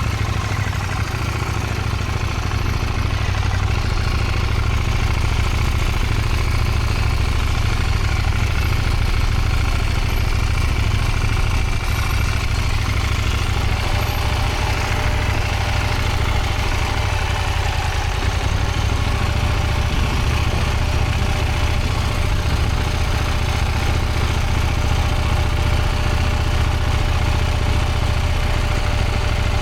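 Motorcycle engine running steadily at low revs. About halfway through, a steady thin whine joins it and holds.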